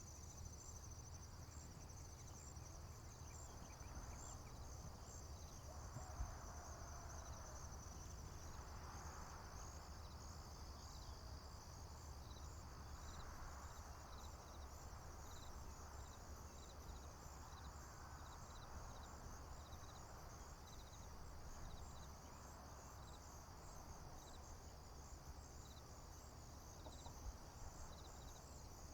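A chorus of crickets and other insects chirping, a steady high-pitched pulsing with a regular string of short chirps running through it. A low steady rumble lies underneath.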